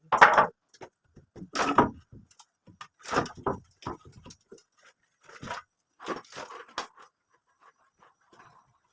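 Irregular knocks and scrapes of hand repair work on an old house, about seven of them spaced a second or so apart, the loudest right at the start.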